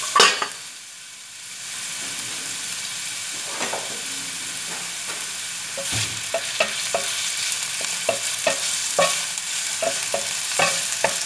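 Meatballs frying in hot oil in a wok, a steady sizzle. There is a sharp knock just after the start, then a brief dip in the sizzle. From about six seconds in, a wooden spatula scrapes and taps against the wok as the meatballs are stirred.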